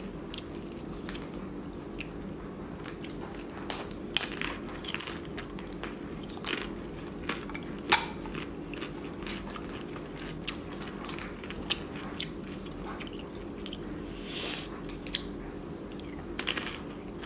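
Close-up eating sounds: chewing with irregular sharp crunches of a crisp corn tostada and crab-and-shrimp ceviche, over a steady low hum.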